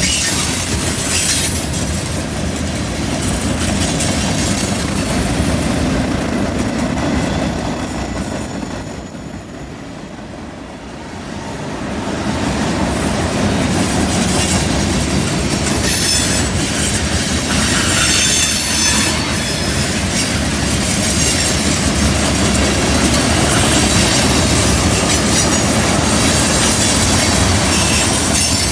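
Freight cars, covered hoppers and tank cars, rolling past on a curve: a steady rumble of steel wheels on rail with clicking over the rail joints. Thin high wheel squeal comes and goes. The sound drops off for a few seconds about a third of the way through, then builds back up.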